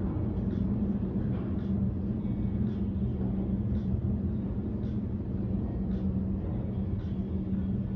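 A steady low mechanical hum with a strong droning tone, and a faint tick about once a second.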